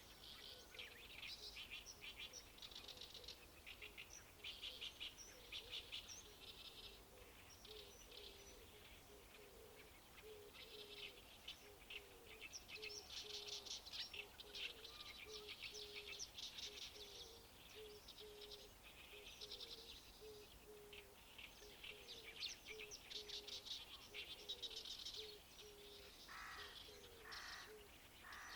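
Faint songbirds singing in rapid, chattering phrases, with three lower, harsher calls near the end.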